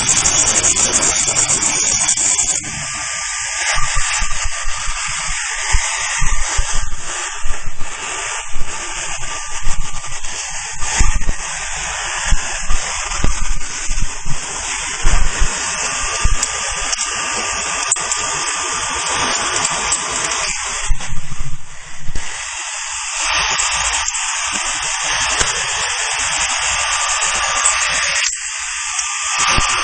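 HB3000+ welding stress relief machine working its treatment head along a weld: a steady, harsh hiss-buzz, with irregular louder knocks between about 4 and 16 seconds in.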